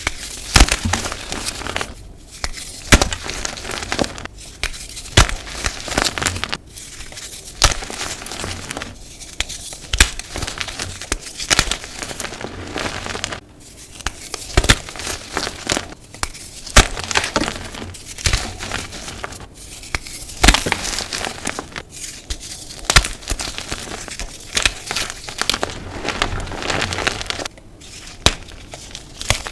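Blocks of dyed gym chalk being crushed and crumbled, a dense crackly crunching of many small sharp clicks, broken by brief pauses every few seconds.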